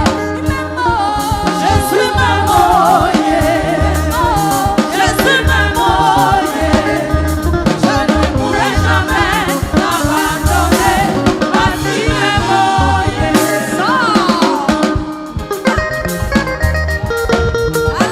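Gospel praise song: singing with wavering, ornamented vocal runs over a drum kit, bass and guitar with a steady beat. There is a brief drop in loudness near the end.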